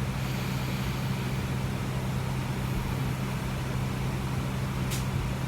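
Steady drone inside a parked airliner's cabin, from its air-conditioning and ventilation system: a low hum under a rushing hiss. A short click about five seconds in.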